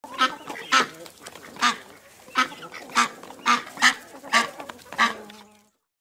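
A duck quacking: about nine short, loud, harsh calls at fairly even spacing, cutting off abruptly shortly before the end.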